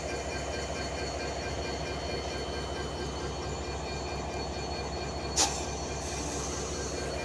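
A train running, a steady rumble with a faint high ringing tone over it, and one sharp clack about five seconds in.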